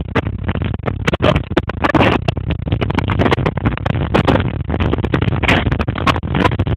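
Tornado winds battering a car, a heavy steady rush with a dense, rapid crackle of debris and rain striking the body and windows.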